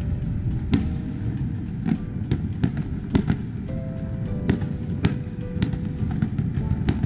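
Fireworks display: a continuous low rumble with about ten sharp bangs of shells bursting, roughly one every half second to second. Music with held notes that change pitch plays underneath.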